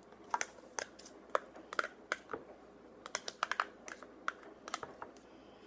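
A spoon stirring thick shampoo and salt in a bowl, knocking and scraping against the bowl's side in quick, irregular clicks.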